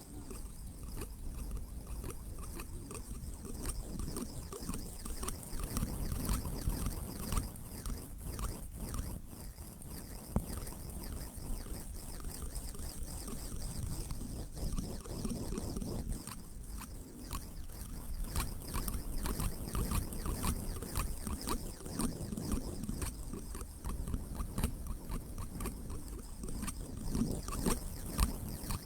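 Steady white-noise sleep track, weighted toward a low rumble, with many faint scattered ticks and crackles running through it.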